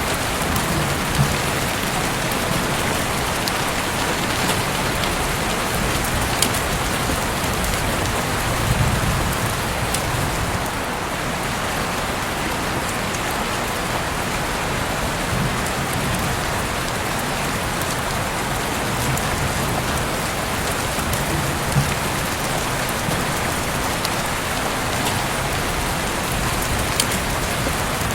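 Heavy rain falling steadily in a dense, even hiss, with a few sharp drip ticks here and there.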